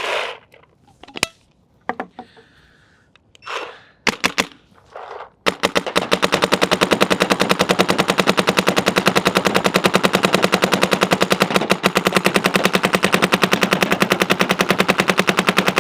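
Shocker ERA electropneumatic paintball marker firing a long, unbroken string of rapid, evenly spaced shots in full-auto, starting about five seconds in after a few handling clicks, as a pod of paint is emptied on high-pressure air.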